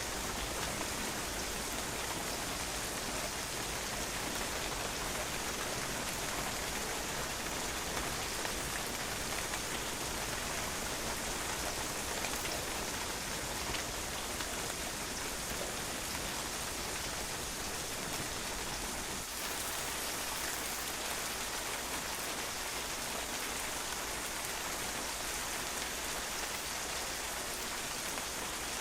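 Steady rain falling on a patio, drops pattering on the hard surface in an even, constant hiss.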